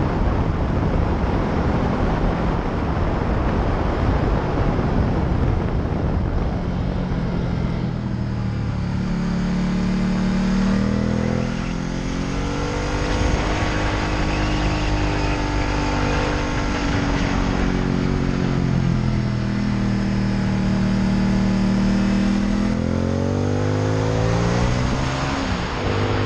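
Ducati Multistrada 1200 S's Testastretta V-twin engine under way on a winding road, its note rising and falling with throttle and gear changes, with a quick climb and drop near the end. Wind rush on the onboard camera's microphone is heavy, masking the engine for the first several seconds.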